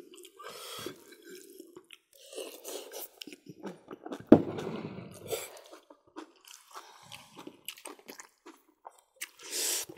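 Close-up eating sounds: people chewing rice, pork and mustard greens eaten by hand, with scattered small clicks and mouth noises and one sharp knock about four seconds in.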